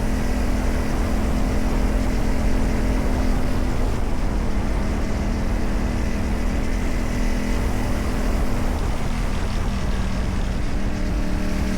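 CFMOTO 450MT motorcycle's parallel-twin engine running through a modified aftermarket exhaust while riding, holding a fairly steady engine note.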